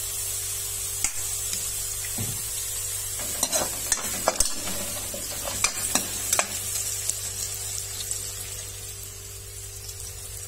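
Sliced onions sizzling in hot oil in a metal wok (kadai), stirred with a metal spatula that scrapes and knocks against the pan several times in the middle as ground spices are worked in.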